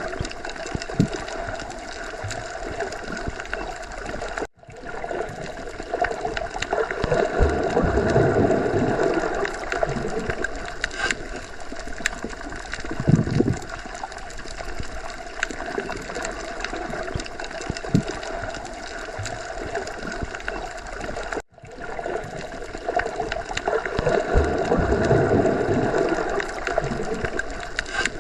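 Underwater ocean ambience: a continuous muffled water rush that slowly swells and ebbs, with a few brief low bubbling pops. It cuts out for an instant twice, about four and a half seconds in and again about twenty-one seconds in.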